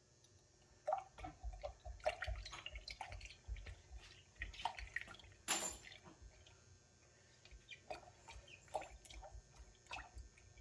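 A spoon stirring a thin spiced laban (buttermilk) drink: liquid sloshing and dripping with irregular small clinks of the spoon, busiest in the first half, with one sharper knock about five and a half seconds in.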